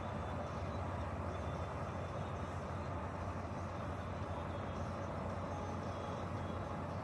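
Truck engine running steadily at idle, a constant low hum with no revving.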